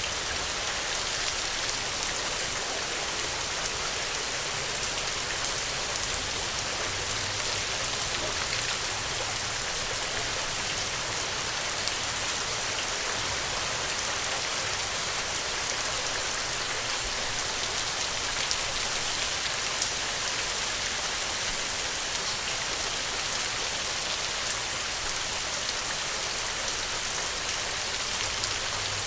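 Steady rain falling, a constant even hiss with scattered individual drop ticks.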